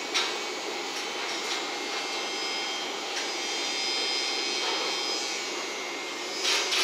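JNR 115 series electric train running away over curved track: a steady rumble with a faint high squeal and a few light clicks. A louder rush of noise comes in near the end.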